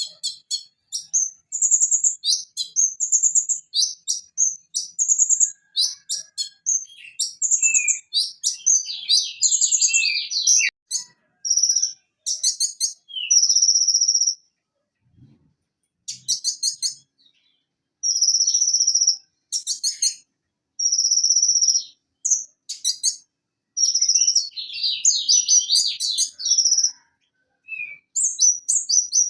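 Van Hasselt's sunbird (konin) singing a rapid, varied run of high chirps, trills and buzzy notes in quick phrases, with short pauses about halfway through.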